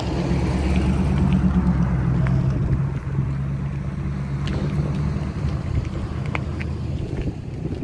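A motor vehicle's engine running close by at low, steady revs: a low hum that is loudest over the first three seconds, then weakens and fades gradually over the rest.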